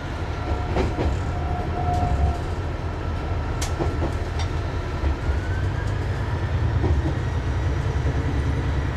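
Haimo 230 diesel railcar running slowly, with a steady low engine drone, a faint whine that rises a little about halfway through, and a few scattered clicks from the wheels on the track.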